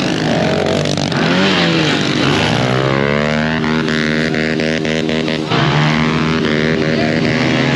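110cc pit bike engine revving up and held at high revs, with a sudden dip and jump in pitch about five and a half seconds in.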